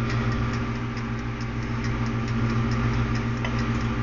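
Toaster oven's wind-up mechanical timer ticking evenly, about four ticks a second, over a steady low hum.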